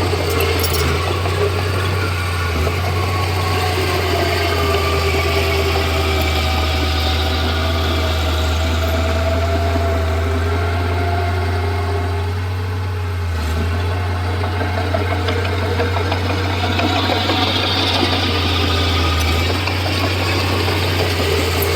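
Komatsu D31P bulldozer's diesel engine running steadily with a deep drone, with wavering higher tones above it that shift slowly in pitch. The sound eases off briefly about halfway through.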